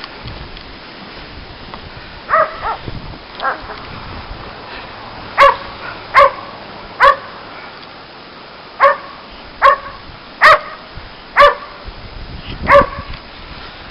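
Dog barking in short single barks: a few quieter ones first, then about eight loud barks roughly a second apart.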